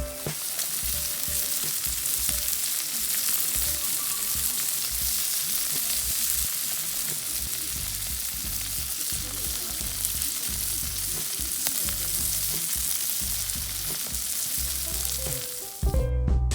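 Food sizzling as it fries, a steady hissing sizzle that stops near the end.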